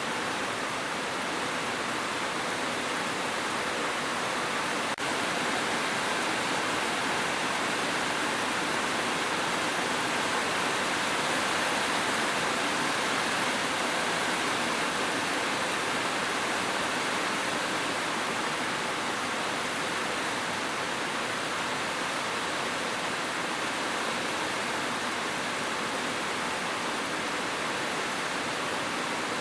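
Steady, even rain noise with a single brief click about five seconds in.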